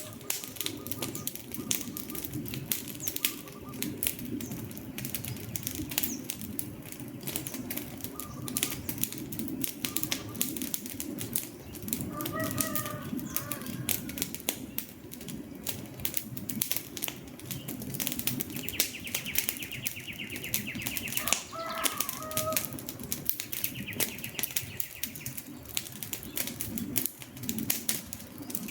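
Campfire burning with steady crackling: many sharp pops and snaps over a low rushing of the flames. A few short bird calls sound now and then, and a brief buzzing twice in the latter part.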